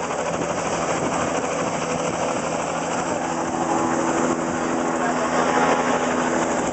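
Helicopter running close by on the ground after landing: a loud, steady rush of engine and rotor noise with a few steady humming tones in it.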